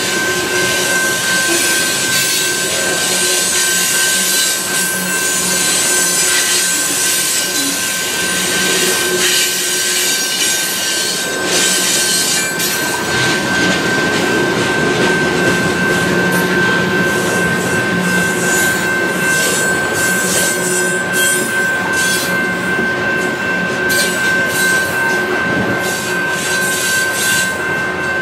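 Freight cars (covered hoppers and tank cars) rolling steadily past, their steel wheels rumbling on the rail with a steady high-pitched wheel squeal. Irregular sharp clicks and clanks come more often in the second half.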